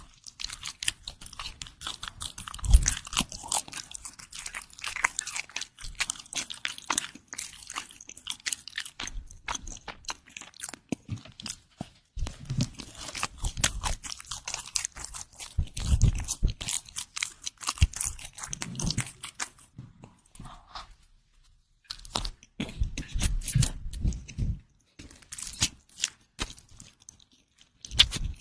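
Close-miked chewing of bread: a dense run of crackling crunches with soft low thuds of the jaw, pausing briefly about twelve seconds and about twenty seconds in.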